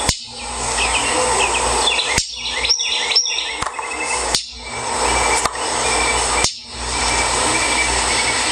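Northern mockingbirds giving short, sharp chirps as alarm calls, scolding an intruder near their nest. Under them runs a steady rushing noise, louder than the birds, that cuts out abruptly several times.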